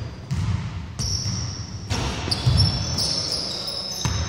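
A basketball bouncing on a wooden gym floor, with repeated thuds and short high-pitched squeaks of sneakers on the court.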